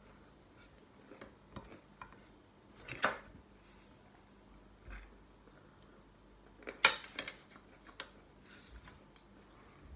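Dishes and cutlery clinking and clattering in short, scattered handling sounds, with a brief scrape about three seconds in and the loudest cluster of clinks about seven seconds in.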